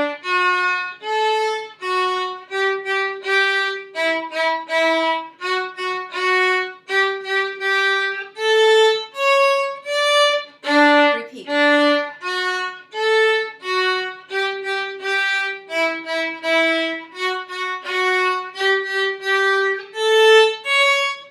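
Violin playing a short rhythm study in eighth and sixteenth notes: a steady run of separately bowed notes in the middle of the instrument's range, mixing longer and quicker notes.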